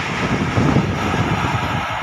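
Rushing noise of an express train that has just passed at speed, dying away as it recedes, with gusts of its wake buffeting the microphone.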